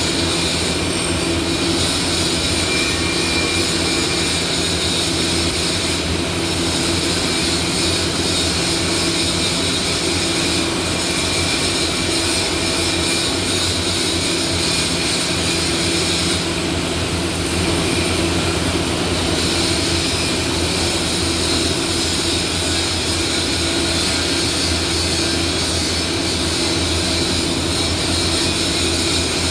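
A steady machine drone with a constant low hum, unchanging in level.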